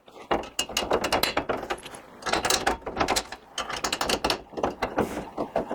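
Rapid metallic clicking and rattling in bursts as a welded steel grille insert is worked into place in a custom truck grille during a test fit.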